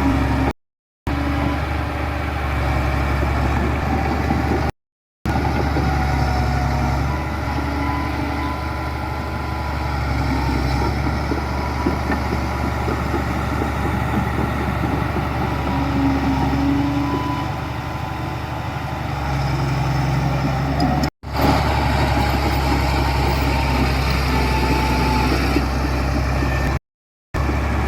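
Diesel engines of heavy construction machinery, bulldozers and dump trucks, running steadily, broken by a few brief silent gaps.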